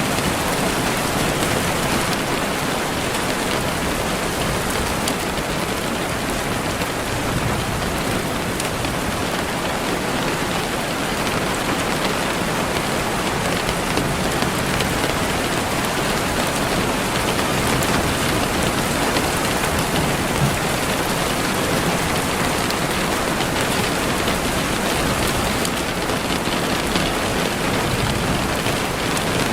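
Steady, even rain falling and pattering on surfaces, with scattered individual drop ticks.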